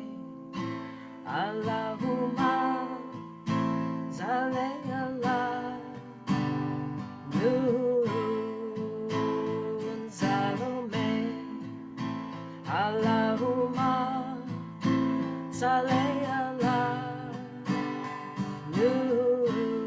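Acoustic guitar strumming steady chords under voices singing a slow, repetitive devotional chant.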